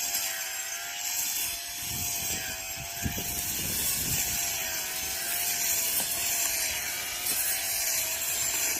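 Electric brush cutter running: a quiet, thin motor whine that wavers slightly in pitch over a hiss, with a few short knocks about two to four seconds in.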